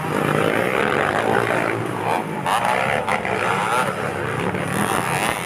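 Motocross dirt bike engines revving and easing off, their pitch rising and falling unevenly, with more than one bike running at once.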